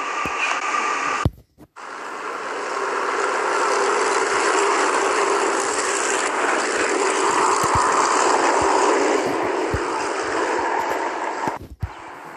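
A railcar passing through a station, a steady rushing run with a droning tone. It builds after a short break about a second in, is loudest midway, then eases before cutting off near the end.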